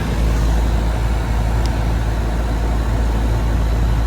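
Lennox Merit series central air-conditioner condenser running: a steady compressor hum under the rush of the condenser fan's airflow.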